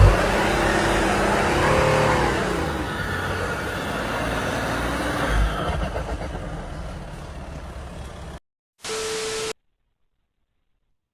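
Motor vehicle noise with a heavy low rumble that fades, cutting off abruptly about eight seconds in. A brief steady beep follows, then dead silence.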